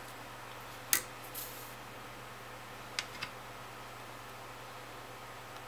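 A sharp click of a small object being handled on a workbench about a second in, a brief rustle, then two light clicks near the three-second mark, over a steady faint background hiss.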